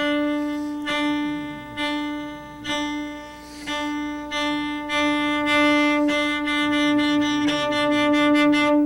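Cello played portato: one pitch held under a continuous bow stroke, pulsed by finger accents. The accents come about once a second at first and closer together from about four seconds in.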